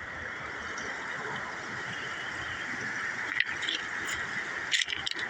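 Steady rush of flowing river water, with a few sharp clicks and knocks about three and a half seconds in and again near the end.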